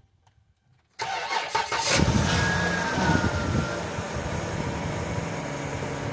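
A minivan's engine cold-starting at around 0 °F, its oil pre-warmed for about 45 minutes by a 250-watt magnetic oil pan heater: about a second in the starter cranks briefly, the engine catches, loudest at that moment, then settles into a steady idle. Just after it catches a short high whine falls in pitch.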